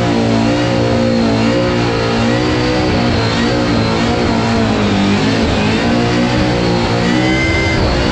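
A burnout car's engine held at high revs during a burnout, its pitch wavering up and down, dipping about five seconds in and climbing again, with the rear tyres spinning in clouds of smoke.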